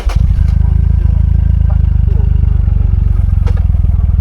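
Motorcycle engine running close by with a deep, rapidly pulsing exhaust note, steady throughout.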